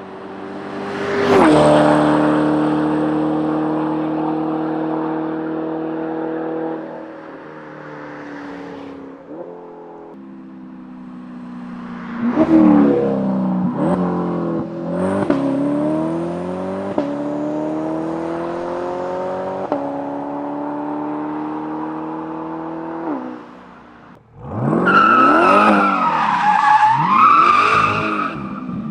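Chevrolet C8 Corvette's V8 through a titanium catback exhaust, heard from outside the car as it drives by under hard throttle. It comes in loud and holds a steady note that sinks away, then about halfway through rises in pitch again and again in quick pulls before a long climbing pull, then cuts briefly and comes back loud with rising and falling pitch near the end.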